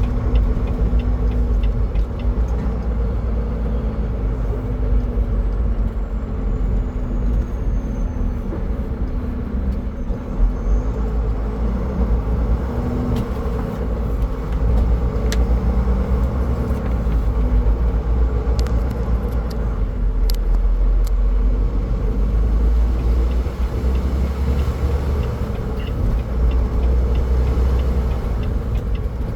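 Car driving at highway speed: steady low road and engine rumble with a constant hum, continuous throughout.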